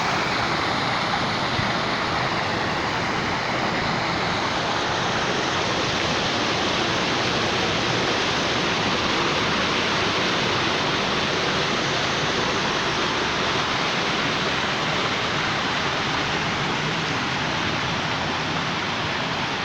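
Heavy rain pouring down, with rainwater rushing along a flooded street as a steady, dense hiss.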